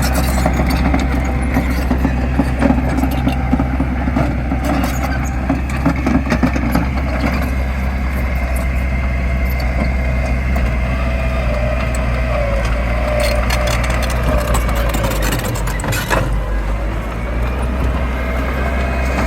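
Diesel engine of heavy earthmoving machinery running steadily under load, with scattered clanks and knocks.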